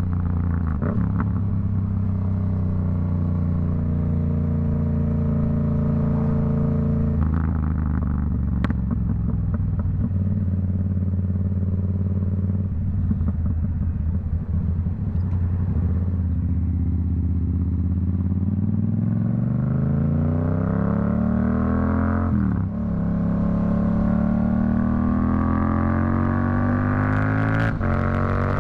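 Yamaha MT-07's CP2 parallel-twin engine through a Black Widow aftermarket exhaust, heard while riding. It holds steady for several seconds, then crackles off-throttle through the middle. About 18 seconds in the rider accelerates hard, the pitch climbing, with a gear change about 22 seconds in and another near the end.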